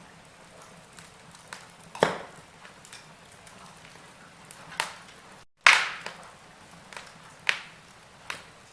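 Wood fire crackling in a fireplace: sharp pops every second or two with smaller ticks between, over a faint steady hiss. The sound drops out for a split second just before the loudest pop, about six seconds in.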